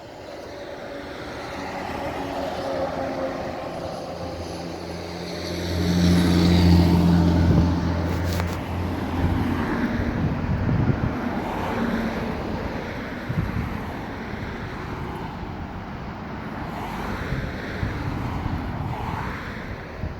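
Road traffic passing on a busy street. One vehicle with a low, steady engine hum passes loudest about six to eight seconds in, followed by more passing cars.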